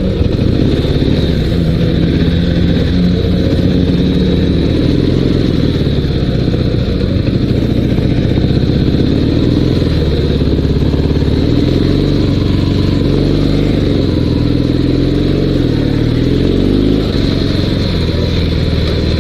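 Dnepr 16 sidecar motorcycle's 650cc flat-twin boxer engine running while riding, its pitch rising and falling as the engine speed changes.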